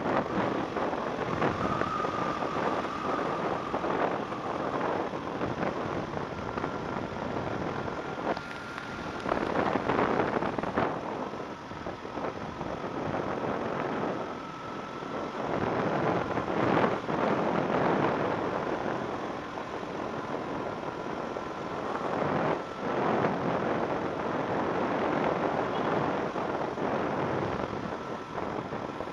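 Road vehicle noise with wind rushing over the microphone, swelling and easing in loudness, with a faint steady whine running through it.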